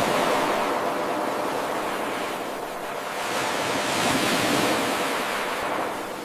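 Ocean surf washing in with a steady rush. It eases about two and a half seconds in, swells again, and subsides near the end.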